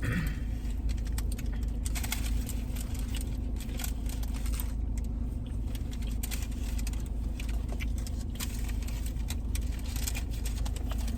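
Steady low rumble of a car's engine running, heard from inside the cabin, with scattered light clicks and rustles over it.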